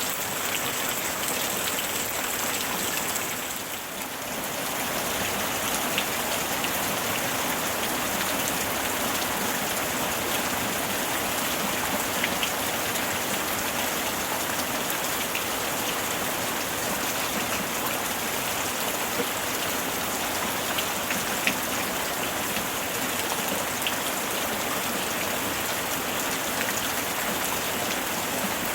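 Steady summer rain falling, an even wash of noise with scattered distinct drop ticks. The level dips briefly about four seconds in, then returns.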